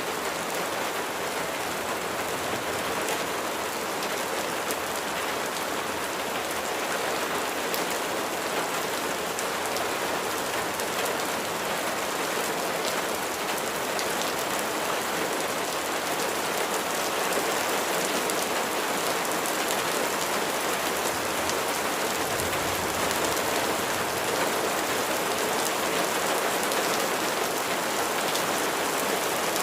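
Steady rain falling: an even, unbroken hiss of many drops, with scattered sharper drop splashes on a surface.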